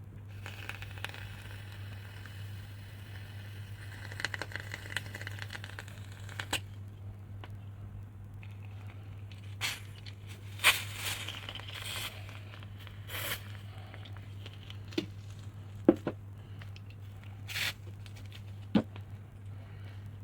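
A modified gas lighter hissing as a soap-and-butane mix is sprayed out of it, first in a long hiss and then in several short spurts with clicks. A steady low electrical hum runs underneath.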